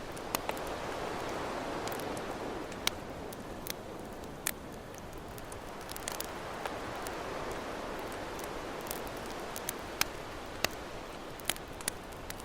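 Campfire crackling, sharp pops at irregular moments about a dozen times, over the steady wash of ocean waves, which swell up in the first couple of seconds.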